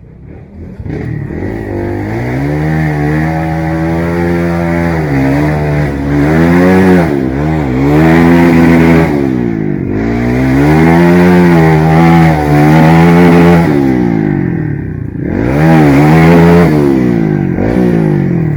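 Trail motorcycle engine revving hard again and again, its pitch climbing and dropping in a series of surges, as the bike is ridden through slippery, muddy dirt track.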